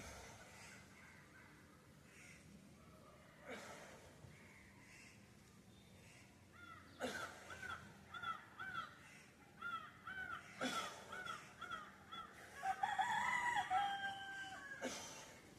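Bird calls: a run of short, repeated, arching notes, about two or three a second, then a longer, more varied call near the end. A few sharp knocks sound in between.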